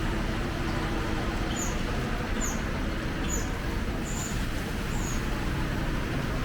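Steady city street noise with traffic, and a small bird chirping about five times, short high falling notes roughly one a second.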